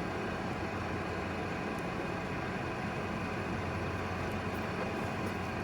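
Summit engine lathe running steadily under power, its spindle and geared headstock turning with a steady hum and no change in speed.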